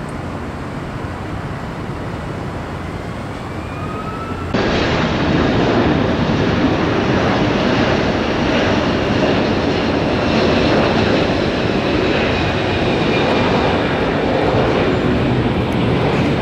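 Jet airliner engines: a steady rush with a faint rising whine. About four and a half seconds in, the sound jumps abruptly louder, with a high engine whine over the rush.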